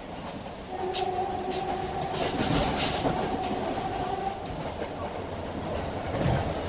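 Passenger train at speed heard from inside a carriage: a steady rumble and rattle of the wheels on the track with scattered clicks. A steady humming tone joins about a second in and fades out after about four seconds.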